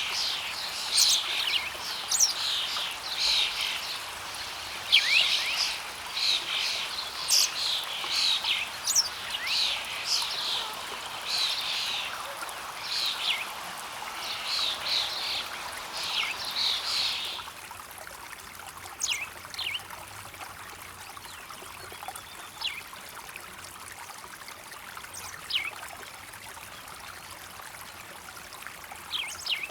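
Songbirds chirping and trilling busily over a steady flow of stream water; a little past halfway the birdsong thins to occasional single chirps while the water carries on.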